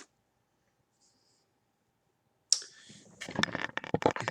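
Near silence, then about two and a half seconds in, a snack pouch is handled, giving a dense run of irregular crinkles and clicks.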